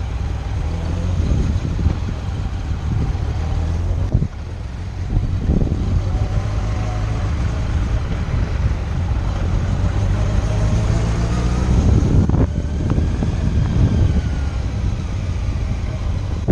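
Motorcycle engine running under way, its pitch climbing steadily through the middle, with brief breaks about four seconds in and again near twelve seconds, as at gear changes.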